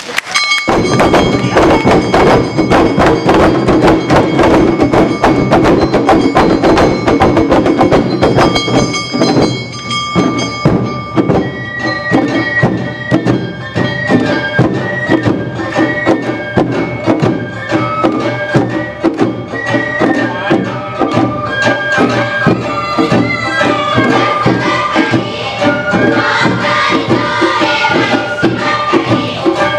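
Awa Odori festival music played live by a dance troupe's band: drums and gongs beat a steady, driving rhythm while a bamboo flute holds and steps through high melody notes. The music starts abruptly about half a second in.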